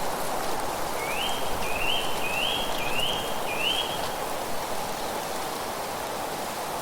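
A bird sings a phrase of five quick, rising whistled notes about one to four seconds in, over a steady rushing noise of wind or water in the background.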